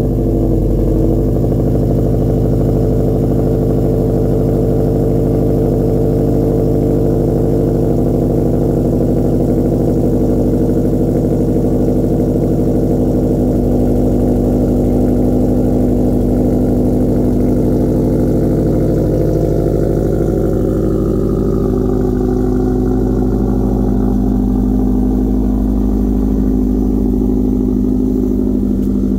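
2015 Subaru WRX STI's turbocharged 2.5-litre flat-four (EJ257) idling steadily, running through a catless downpipe with no catalytic converter.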